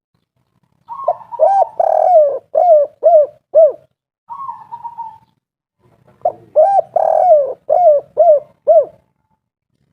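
Spotted dove (tekukur) singing its 'kuk 3' song twice, about five seconds apart. Each phrase opens with a soft note, swells into a long coo and ends with three short, falling coos.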